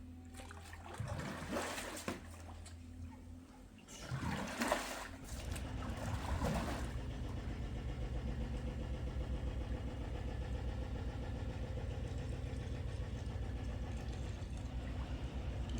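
An engine starts: after a couple of loud noisy bursts it catches about five seconds in, then runs steadily with an even low pulse.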